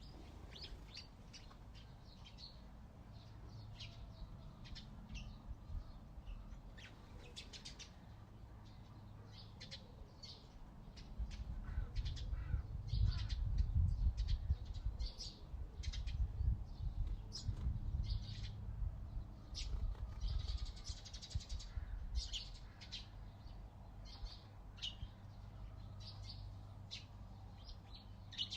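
Wild songbirds chirping, many short high calls overlapping throughout. A low rumble swells up about a third of the way in, is loudest for several seconds and fades back down past the middle.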